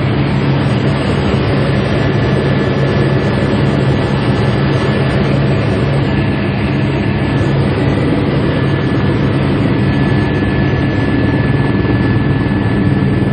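Helicopter in flight: a steady, loud drone of engine and rotor noise with a thin, steady high whine over it.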